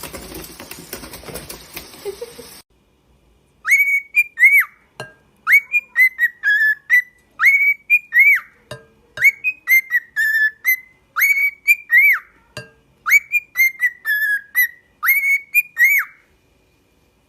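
Parrot whistling a tune: short clear notes, each rising and falling, strung into repeated phrases with brief pauses between them. Before it, a short stretch of noise cuts off abruptly.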